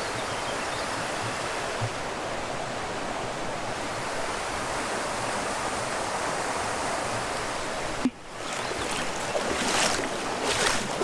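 Steady rush of a small waterfall pouring into a stream pool. About eight seconds in it cuts off abruptly, and gusts of wind buffet the microphone.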